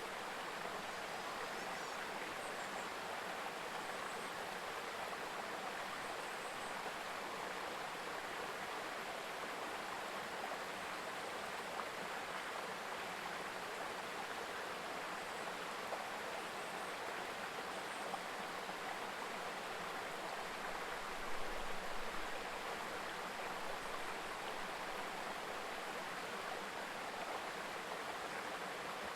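A river stream babbling with a steady rushing murmur. About three-quarters of the way through there is a brief low rumble.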